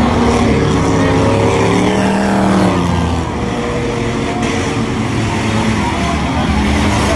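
Several race cars' engines running and revving, their pitch rising and falling as they go around the track.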